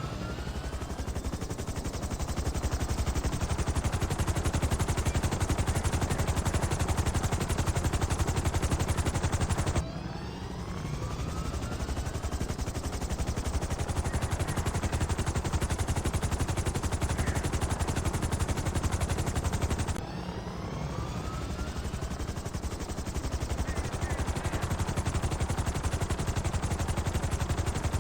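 Helicopter rotor blades chopping steadily, a rapid thudding beat with engine whine over it. The same stretch of sound restarts twice, about every ten seconds, with a brief dip in level each time.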